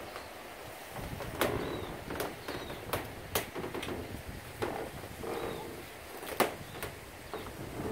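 Birds calling: a few short high chirps and some low calls, among scattered sharp clicks over a steady background hiss.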